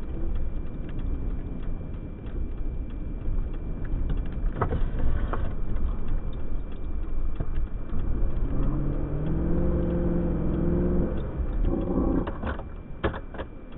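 A car running in deep blizzard snow, with a steady low rumble of engine, tyres and wind. Past the middle the engine revs up and holds for a few seconds, as the car bogs down in drifted snow, then a few sharp knocks.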